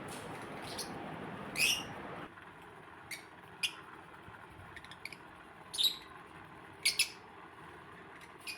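Pet lovebirds giving short, sharp, high calls, about nine separate ones, the loudest about one and a half seconds in and a quick double call near the end.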